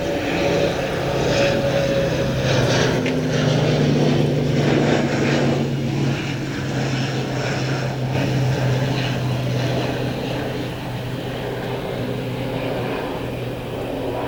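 Fokker 50 twin turboprop landing, its Pratt & Whitney Canada PW125 engines and six-bladed propellers giving a steady low propeller hum over a broad roar. The sound is loudest about four to five seconds in as the aircraft passes, then eases.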